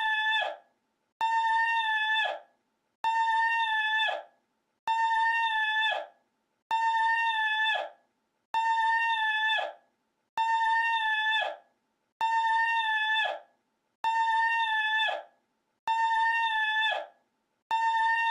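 A short, high vocal cry looped over and over: the same call repeats about every 1.8 s, about ten times, each held at one pitch for a little over a second before it drops off.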